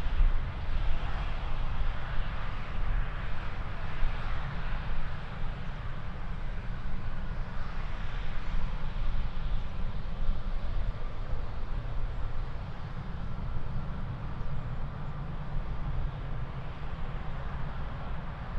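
Jet airliner engine noise: a steady low rumble with a rushing hiss that is loudest in the first half and slowly fades.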